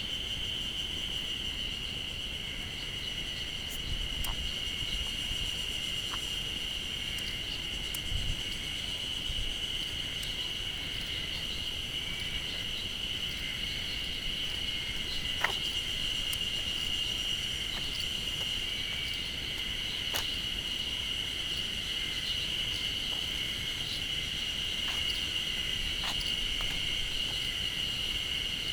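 Loud insect chorus, a steady unbroken high drone, which the uploader takes for cicadas. A few faint clicks and low thumps come through it.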